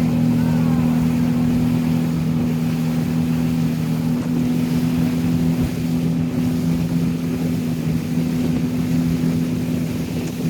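Boat engine running at a steady drone, with a continuous rushing noise of wind and water.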